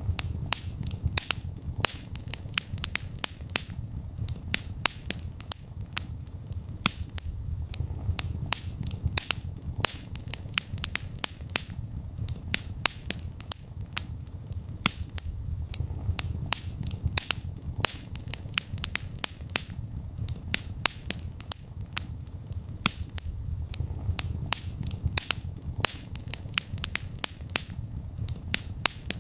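Wood fire burning in a fireplace, crackling and popping: irregular sharp snaps several times a second over a low steady rumble of the flames.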